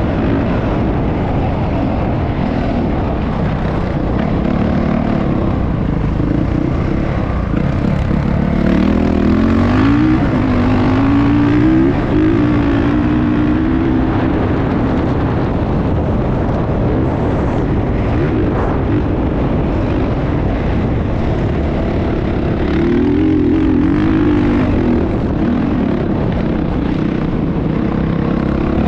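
Dirt bike engines running, the pitch climbing and wavering as the throttle is worked, most clearly about eight to fourteen seconds in and again a little past twenty-two seconds.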